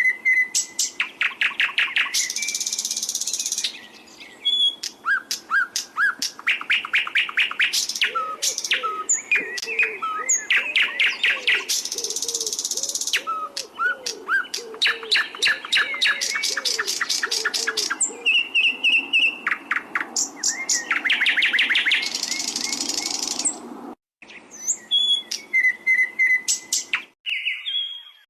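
Cage songbird singing a long, varied training song of rapid trills, fast runs of repeated notes, buzzy passages and short whistles. It cuts off abruptly about 24 seconds in, then resumes briefly with a different pattern of notes.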